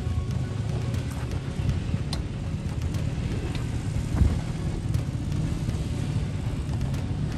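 Jeep Wrangler engine running at low revs as it crawls down a rocky slope, mixed with wind on the microphone. A few sharp clicks, and a low thump about four seconds in.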